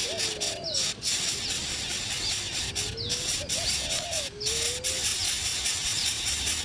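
Birds calling: low, gliding cooing notes repeated every second or so, with faint short high chirps over a steady hiss.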